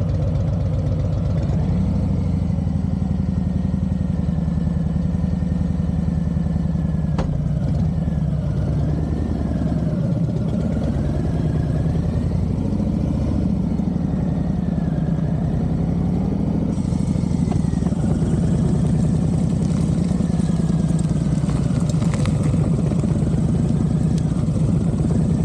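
Harley-Davidson Street Bob 114's Milwaukee-Eight V-twin engine running with a steady pulsing beat, its pitch rising and falling a little.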